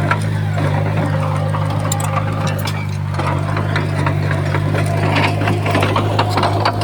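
Bulldozer's diesel engine running steadily, with scattered clanks and rattles that come more often in the second half.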